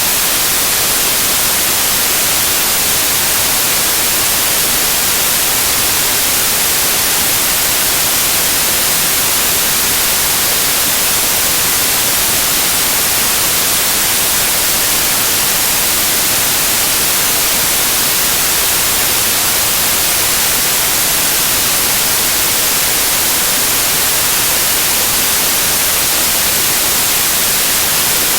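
Loud, steady white noise: an even hiss with no tones or breaks, brightest in the highs.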